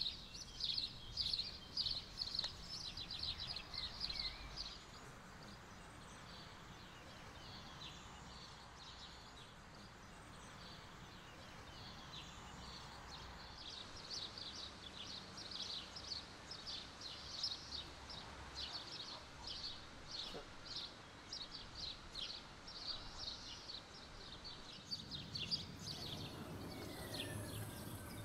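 Birds chirping over quiet outdoor ambience: runs of quick, high chirps at the start and again through the middle. A low hum comes in near the end.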